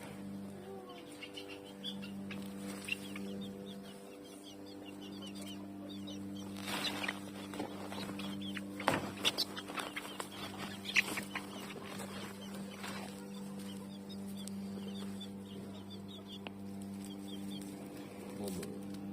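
Birds calling: small high chirps throughout, with a run of louder, sharper calls in the middle, over a steady low hum.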